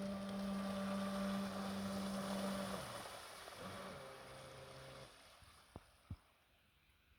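Electric RC jet boat's 70mm jet drive running with a steady whine over a rush of water, dropping to a lower pitch about four seconds in and fading out around five seconds. Two short knocks follow near the end.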